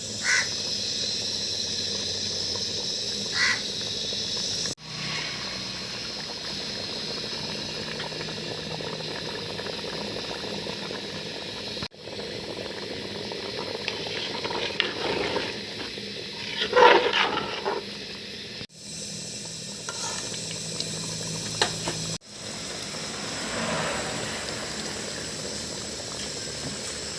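Chicken curry sizzling and hissing steadily in the pot over the fire, with a few brief louder sounds, the biggest about two-thirds of the way through.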